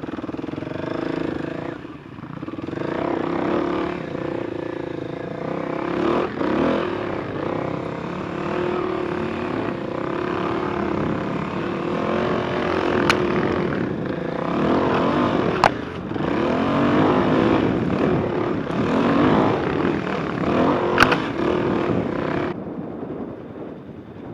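Enduro motorcycle engine running under load, its pitch rising and falling as the throttle is opened and closed. Three sharp clicks stand out about halfway through and near the end.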